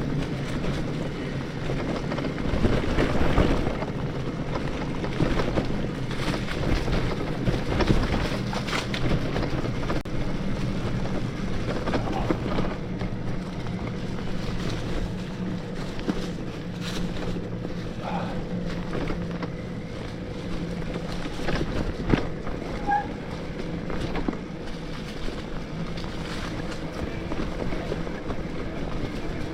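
Riding noise of an electric mountain bike with a 72V Bafang BBSHD mid-drive motor: wind buffeting the microphone, tyres rolling over dirt trail, and a steady low motor hum, with scattered knocks from the bike going over bumps.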